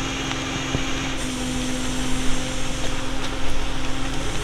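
Vehicle engine running steadily under a broad hiss, its pitch stepping up slightly about a second in.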